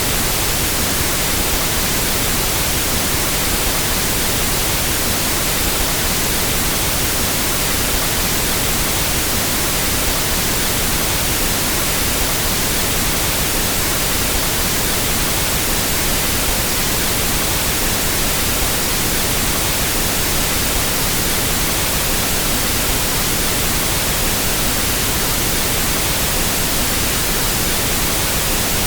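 Steady pink noise test signal, an even hiss across the whole frequency range at a constant level, used for equalizing sound systems.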